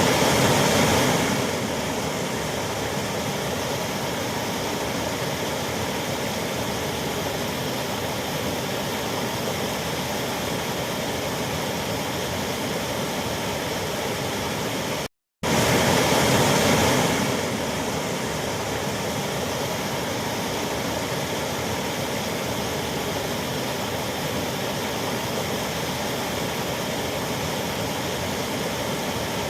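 Waterfall rushing as a steady, even roar of falling water. It cuts out for a split second about halfway, then resumes a little louder for a couple of seconds before settling again.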